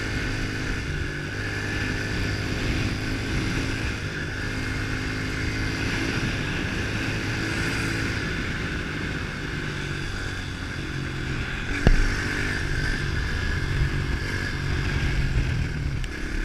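110cc pitbike's single-cylinder four-stroke engine running under way, its pitch stepping up and down as the speed changes. A single sharp knock comes about twelve seconds in.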